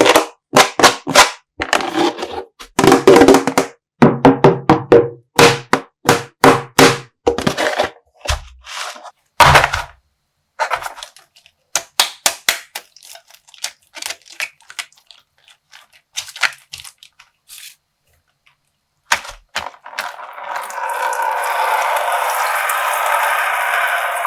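Rapid sharp cracks and knocks from a plastic slime bag being worked and popped, thinning out after about ten seconds. About twenty seconds in, a steady rush of water starts, the bag's coloured water pouring out.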